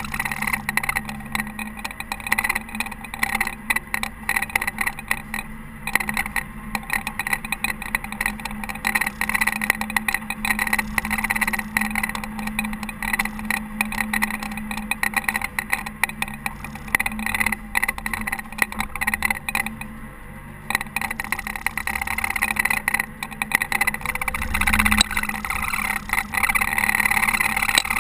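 Caterpillar TH330B telehandler's diesel engine running steadily while it plows snow, a constant hum with a busy rattling noise over it.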